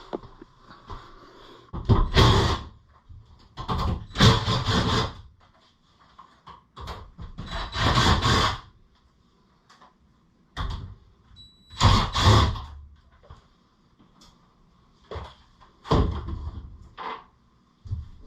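An irregular series of knocks and scrapes, about seven of them, some lasting up to a second, with a brief high beep about eleven seconds in.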